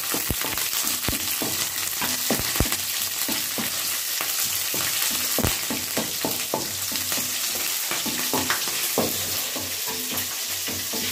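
Oil sizzling in a metal kadai as green chillies fry in a tempering of mustard seeds, chana dal and curry leaves, with a wooden spatula stirring and knocking against the pan many times. It is the chillies being fried through in the tempering for upma.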